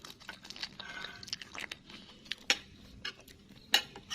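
A person chewing a mouthful of rice vermicelli noodles, with many short, sharp mouth clicks and smacks.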